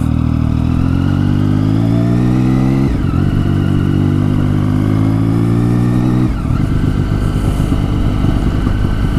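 Triumph Tiger 1050 Sport Triple's three-cylinder engine with its new exhaust, accelerating: the note climbs, drops at a gear change about three seconds in, and climbs again. From about six seconds in it turns rough and uneven. Heard from the helmet microphone.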